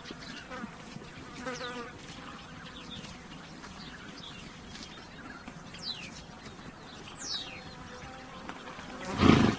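Flies buzzing around a horse, with two quick falling bird chirps in the middle. Near the end the horse gives one short, loud snort, blowing air out through its nostrils.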